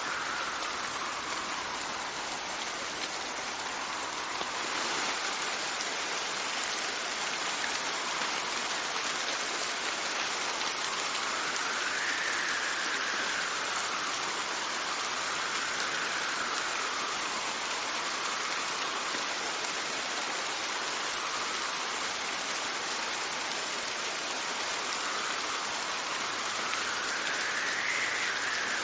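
Steady rain falling, with wind gusting over it in slow whistling sweeps that rise and fall in pitch every few seconds.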